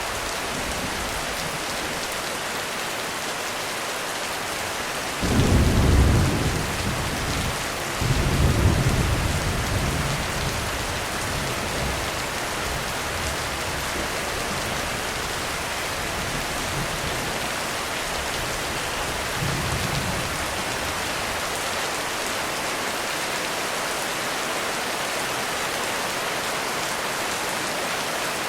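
Heavy rain falling steadily, with thunder. Two loud rolls of thunder start suddenly about five and eight seconds in, and a fainter rumble comes near twenty seconds.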